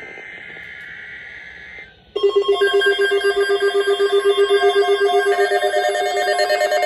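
Weather radio alert. First comes about two seconds of the buzzy digital data burst of the alert header. Then, just after two seconds in, a loud alarm tone starts, pulsing rapidly like a ringing bell, signalling a severe thunderstorm watch.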